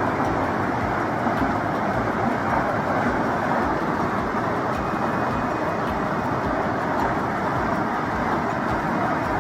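Floodwater rushing past in a steady, even noise with no breaks.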